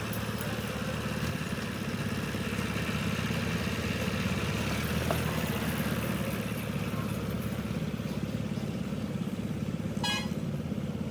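An engine running steadily with a fast, even chugging. A brief high toot, like a horn, sounds about ten seconds in.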